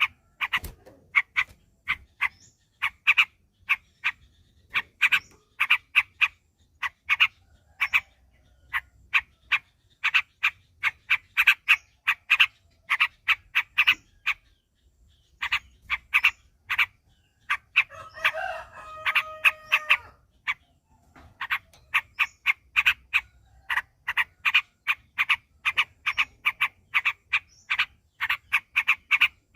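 Yellow-vented bulbul (trucuk) singing in a rapid run of short, sharp chirping notes, about three a second, with a brief pause about halfway. About eighteen seconds in, a different drawn-out sound with a steady pitch lasts about two seconds.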